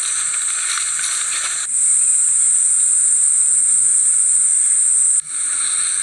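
A steady, high-pitched chorus of insects in woodland, shifting abruptly in strength and tone twice, once about a second and a half in and again near the end.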